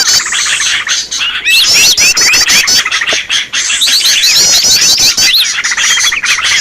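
Bird-lure recording of many small birds calling at once: a loud, dense mix of quick repeated chirps and rapid trills, used to draw wild birds in.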